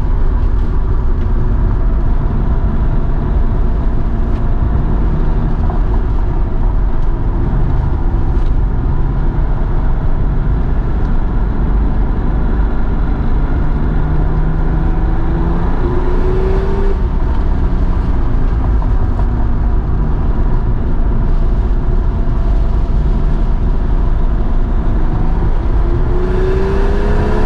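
Porsche 930 Turbo's air-cooled, turbocharged flat-six engine running hard under load on a steep mountain climb, heard from close to the rear of the car. Its pitch rises as it accelerates about halfway through and again near the end.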